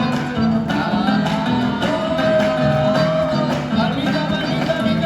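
A man singing a gato, a fast Argentine folk dance song, to strummed acoustic guitar, holding long wavering notes.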